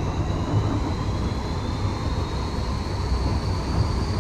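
Train running along the track: a steady low rumble of the carriage in motion, with a faint high whine slowly rising in pitch.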